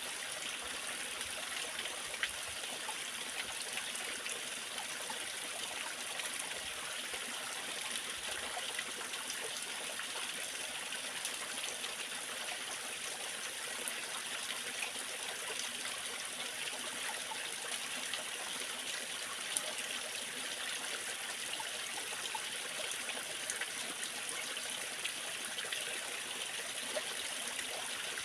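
Waterfall and stream water running steadily, a constant hiss of falling and splashing water with small droplet splashes and no change.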